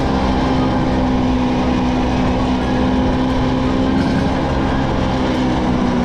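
Vespa V50 small-frame two-stroke scooter engine running steadily under way, holding a near-constant pitch.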